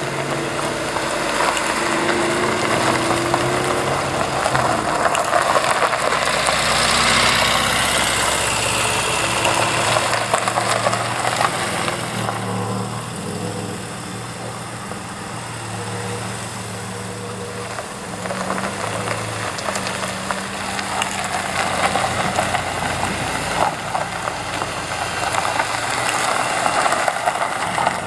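Classic cars driving slowly past, their engines running at low revs; the loudest goes by close about seven seconds in, and another near the end.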